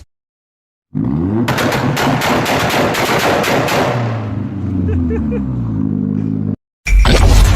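Loud car exhaust revving and coming off throttle, with a rapid string of sharp crackles and pops for about two seconds while the engine pitch slides down and back up. It starts abruptly after a second of silence and cuts off near the end, where another loud engine begins.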